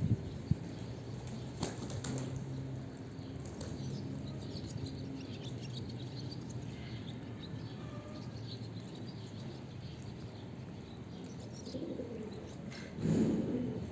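Homing pigeons cooing in low, held tones and flapping their wings, with a louder flurry of wing flaps near the end.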